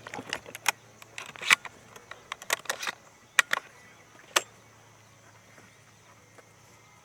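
A run of irregular sharp clicks and taps for the first four seconds or so, then only a faint steady outdoor background with a thin high hum.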